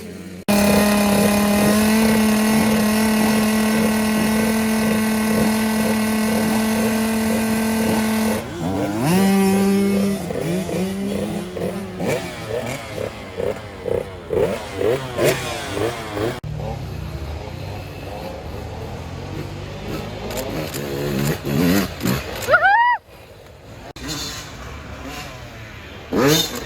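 Dirt bike engines: one holds a steady note for about eight seconds, then repeated revving, the pitch climbing and dropping over and over as the bikes accelerate and shift gear, with another sharp rising rev near the end. The sound changes abruptly several times.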